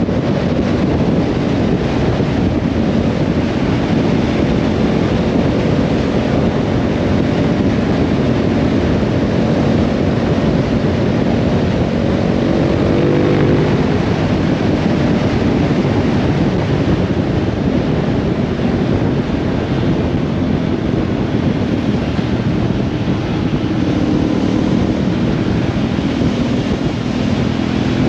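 Motorcycle running at road speed, its engine note under a steady, heavy rush of wind and wet-road noise; the engine pitch rises briefly about halfway through.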